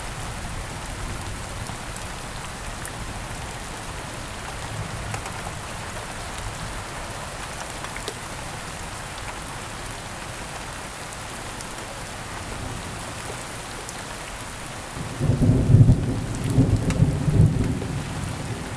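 Steady heavy rain, with a loud, low rumble of thunder rolling in near the end and fading after about three seconds.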